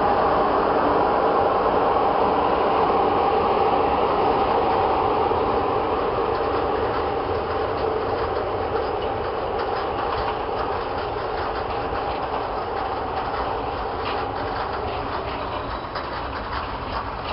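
Freight train of covered wagons rolling past, wheels clattering over the rail joints. The rolling noise sinks slowly as the train goes by.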